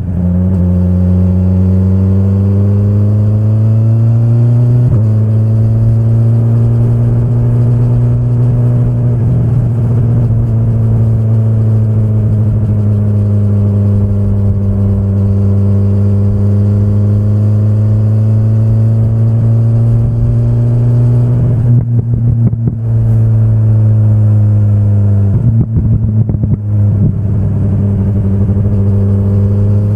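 2025 BMW S1000RR's inline-four engine running under way at moderate revs, its pitch easing up and down with the throttle. The pitch jumps up sharply about five seconds in and again around 25 s, with brief rough, crackly stretches around 22 s and 26 s.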